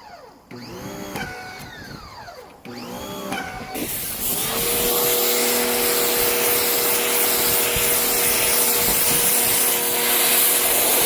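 Water being poured out, giving three sweeping, hollow-sounding gushes. About four seconds in a wet vacuum motor starts and runs steadily with a constant hum, sucking water out of the soaked car carpet.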